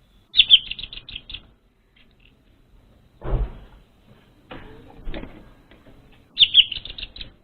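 Orange-headed thrush (anis merah) calling: two short bursts of rapid chirping notes, one about half a second in and one near the end, with softer rustling noises between them.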